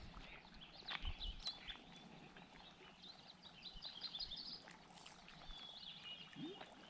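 Faint songbird chirps over a quiet outdoor background, with a quick trill of repeated high notes about halfway through and a few light clicks about a second in.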